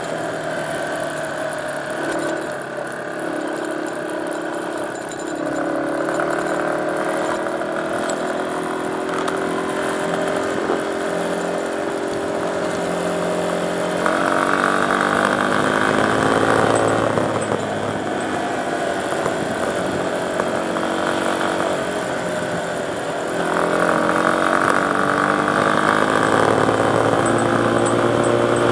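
Dirt bike engine running while riding, its pitch climbing and dropping with the throttle and gear changes. It gets louder about five seconds in, again about halfway through, and once more near the end.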